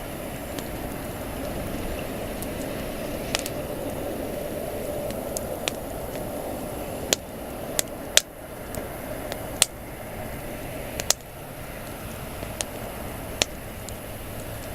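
Wood campfire burning with a steady rush of flame and about ten sharp pops and cracks from the burning wood, the loudest a little past the middle.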